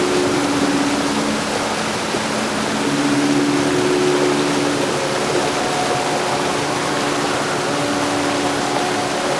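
Heavy rain falling steadily, an even hiss with no thunder claps. Faint held low tones come and go underneath it.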